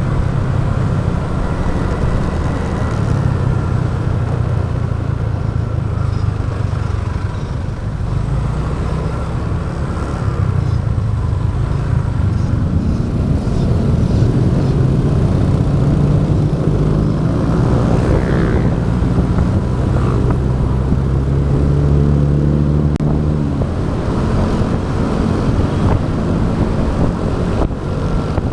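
Motorbike engine running while riding, with road noise and wind on the camera's microphone; the engine note grows stronger from about two-thirds of the way in.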